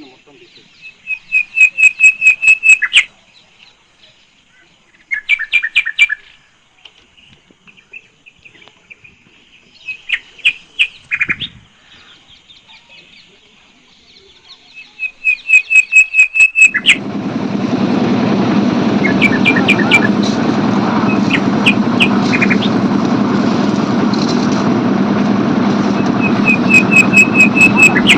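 A bird calling in bursts of rapid, evenly repeated high chirps, five bursts of one to two seconds each. About two-thirds of the way through, a steady loud noise sets in under the calls.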